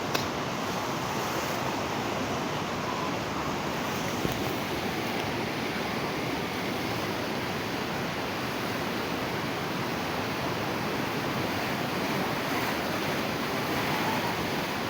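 Steady rush of the flooded Sebeya river, a dense, unbroken noise of fast-moving floodwater.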